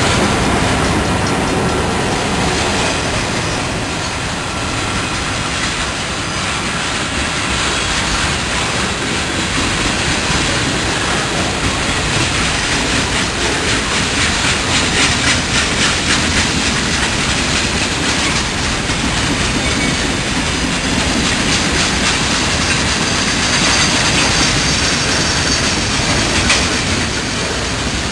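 Railway cars rolling along the track, the wheels clacking over rail joints, with a faint high wheel squeal coming in later on.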